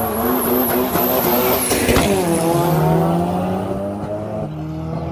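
Two Volvo 240-series cars with 16-valve four-cylinder engines (a B234F and a B230F with a 16-valve head) launching hard from the line and accelerating at full throttle in a drag race. The engine note climbs, peaks as the cars pass close by about two seconds in and drops in pitch as they go, then climbs again.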